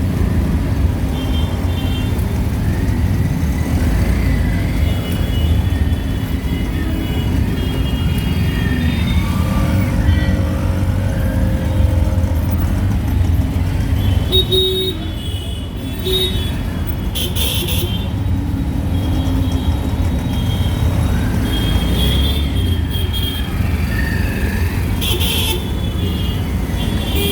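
Auto-rickshaw engine running with a steady low rumble through street traffic, with horns tooting now and then, more often in the second half.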